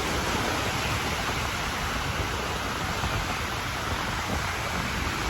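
Steady rushing noise of ocean surf, with wind rumbling on the microphone.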